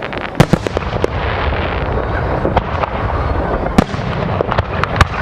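Fireworks display: a dense, unbroken rumble of bursts with many sharp bangs on top, the loudest about half a second in, near four seconds and just before the end.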